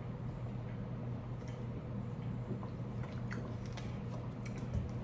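Close-miked chewing of food, with small wet mouth clicks scattered through, over a steady low hum.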